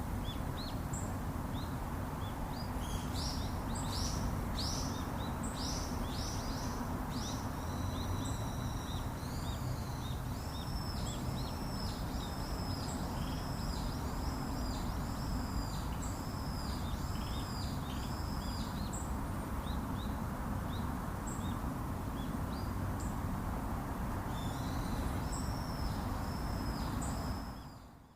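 A songbird singing over steady low background noise. About a second in, it gives a run of short, quick high chirps. These lead into a long series of arched, whistled notes about two a second, and it sings again briefly near the end.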